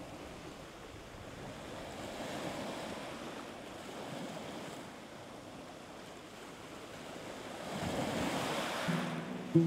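Sea waves washing in, swelling twice and easing off between. Low held music notes come in near the end.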